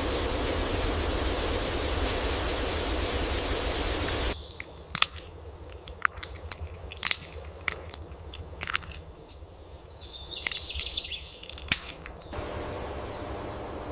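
Steady outdoor noise that cuts off about four seconds in to a quieter stretch of irregular sharp crunching clicks lasting about eight seconds, before steady noise returns near the end.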